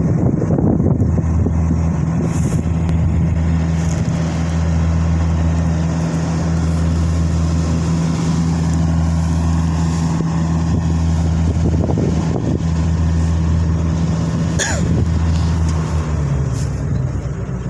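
Rice combine harvester's engine running steadily under load. A short, high squeal falls in pitch near the end, and the engine note then drops slightly.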